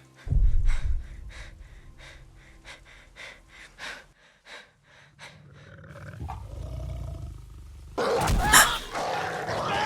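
Television soundtrack: a heavy low thud, then scattered rustling and clicks. About eight seconds in comes loud animal snarling and roaring, typical of the direwolves attacking in this scene.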